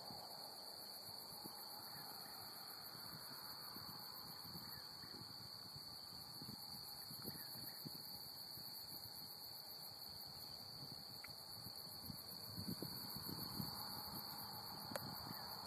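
Faint outdoor summer-night ambience: a steady high-pitched insect chorus, with a few soft knocks and clicks near the end.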